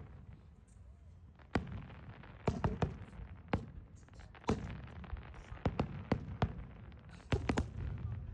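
Fireworks bursting overhead: a string of sharp bangs at irregular intervals, several coming in quick clusters, over a steady low rumble.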